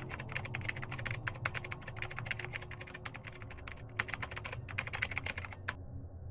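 Keyboard-typing sound effect: a fast, uneven run of key clicks that stops abruptly near the end, over a low steady hum.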